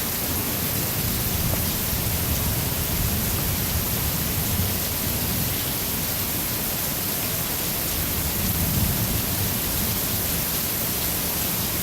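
Heavy rain pouring down in a thunderstorm, a steady hiss.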